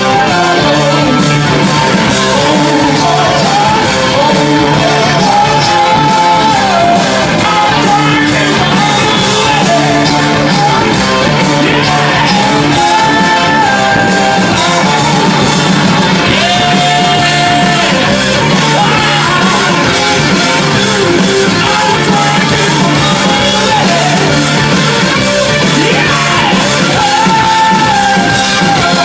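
Hard rock band playing live and loud: a singer's long held vocal lines over electric guitar and a steady band backing.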